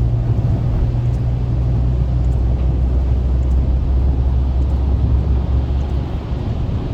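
Car driving: a steady low engine and road rumble, the engine note shifting lower about two seconds in.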